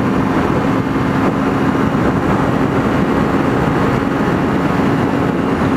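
Kawasaki Ninja 300's parallel-twin engine running at a steady speed while cruising, its note holding one pitch under heavy wind rush on the microphone.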